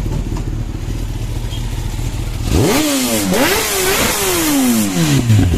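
Motorcycle engine idling, then about two and a half seconds in it revs up sharply twice, and its pitch falls slowly away over the next two seconds.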